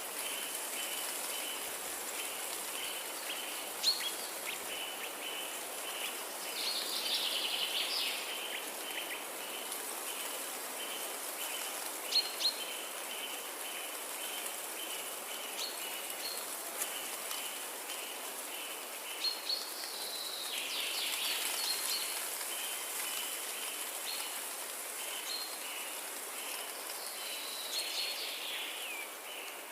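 Forest ambience: birds giving short calls and chirps, with brief bursts of quicker twittering now and then, over a steady high hiss and a rhythmic high-pitched pulsing chirp that runs almost throughout.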